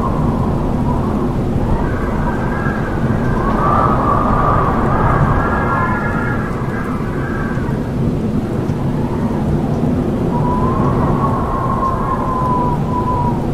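Howling wind: a steady, low rumbling rush with whistling howls that rise and fall over it. There is a cluster of howls in the first half and one long howl near the end.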